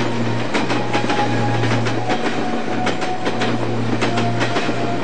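Railway train running at speed: a steady low rumble with many sharp clicks of the wheels over rail joints.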